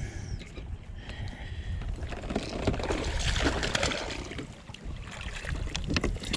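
Wind rumble on the microphone aboard a fishing kayak, with a stretch of water and handling noise around the middle and a single sharp knock near the end.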